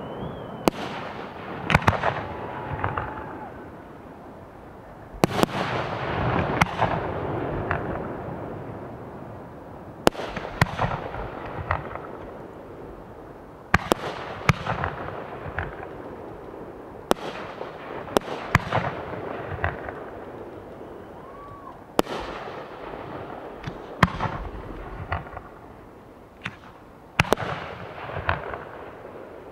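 Professional 1.3G aerial firework shells launching and bursting one after another: about fifteen sharp bangs spread unevenly, some in quick pairs, each trailing off slowly.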